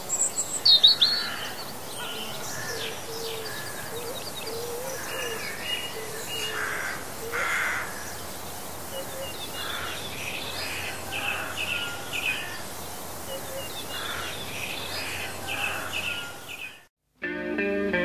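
A chorus of wild birds singing and calling: many short chirps and trills, with a few lower calls mixed in, over a steady outdoor hiss. It fades out about a second before the end, and rock music starts just before the end.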